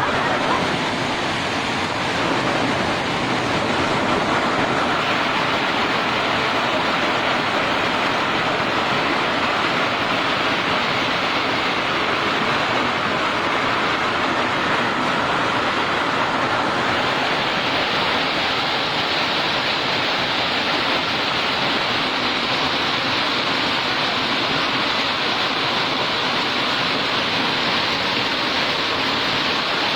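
Hailstorm: hailstones pelting down thick and fast, a loud steady hiss of countless hits that turns a little sharper about halfway through.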